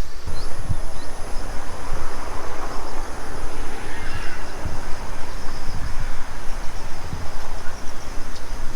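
Wind buffeting the microphone in uneven low gusts, with a steady high insect drone and faint chirps behind it.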